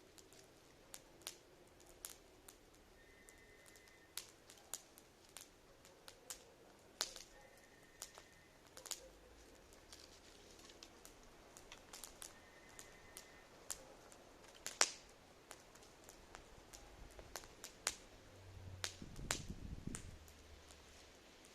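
Campfire crackling faintly, with irregular sharp pops and snaps, a few of them louder, and a low rumble near the end.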